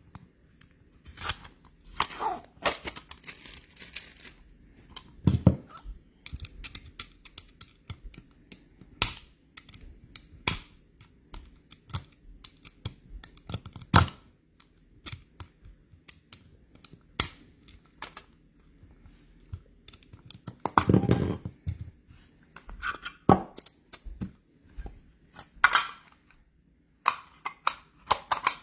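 Trading card packs being torn open, wrappers rustling and crinkling, with scattered sharp clicks and taps of cards being handled and set down. The longest tearing rustles come about two seconds in and again about two-thirds of the way through.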